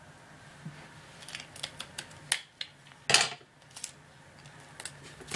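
Paper and sticky tape being handled close up: a run of small clicks and crinkles, with a short rasp about three seconds in.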